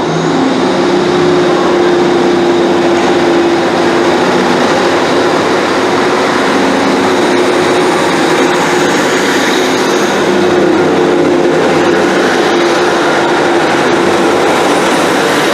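Diesel multiple-unit train running at the platform, a loud, steady engine and rail noise with a low droning tone.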